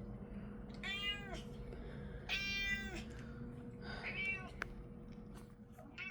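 Domestic cat meowing three times, each call about half a second long and rising then falling in pitch, with a fainter fourth meow near the end.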